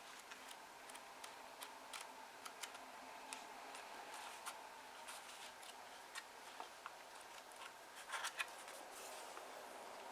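Faint paper handling: scattered soft clicks and light rustles of paper pages being touched and turned, with a brief louder rustle about eight seconds in.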